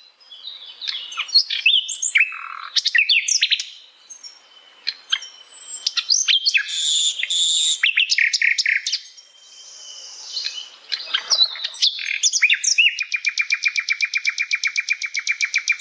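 Sikatan londo, a flycatcher, singing a varied song of high chirps, whistled glides and short trills, with brief pauses between phrases. Near the end it delivers a long, very fast trill of repeated notes.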